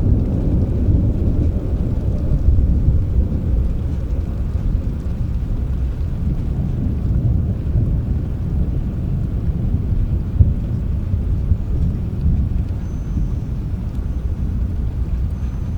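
Thunder rumbling low and long over rain, swelling in the first few seconds and slowly easing off.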